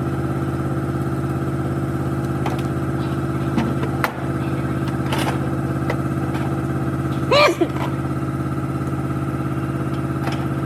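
A motor running at one steady speed with a constant low hum, with a few light knocks and a short squeak about seven seconds in.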